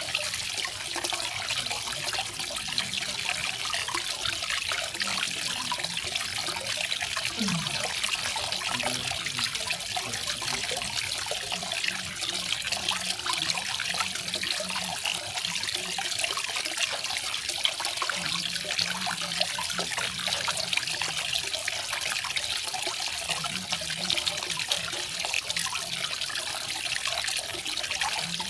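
Garden waterfall: water falling and splashing steadily in an even, unbroken rush.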